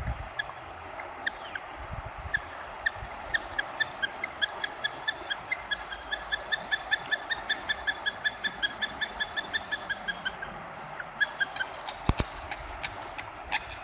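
Floodwater of a swollen river rushing steadily, with a bird calling a fast run of short, sharp notes, about four or five a second, from about four to ten seconds in. A single knock sounds near the end.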